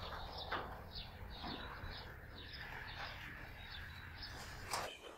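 Faint bird chirps, short and repeated a few times a second, over a low steady outdoor background.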